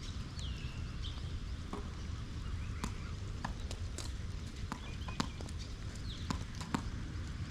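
Tennis ball bouncing on the court and being struck, heard as a string of sharp taps roughly every half second to second. There are two brief high squeaks, about half a second in and again near the end, and a steady low rumble underneath.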